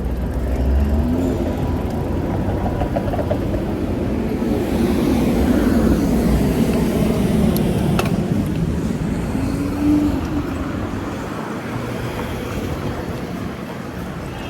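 City road traffic: cars passing with steady engine and tyre noise, an engine rising in pitch twice, and a sharp click about eight seconds in.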